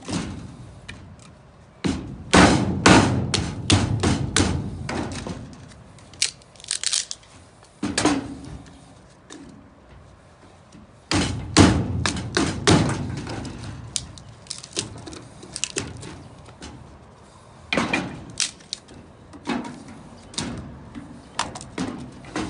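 A knife striking against wood in several bursts of rapid knocks and thuds, with short pauses between the bursts.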